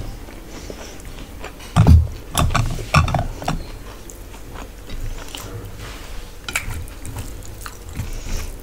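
Close-miked eating sounds: a person chewing and biting food, with a few louder mouth thumps about two and three seconds in, then softer irregular chewing clicks.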